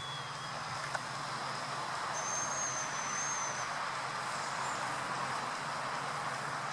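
Steady hiss of distant traffic, with a thin high whistle note about two seconds in, held for about a second and a half with a slight waver.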